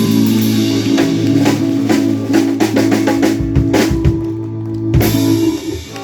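Rock band holding a final chord over a run of drum hits, the song ending with a last hit just before the end.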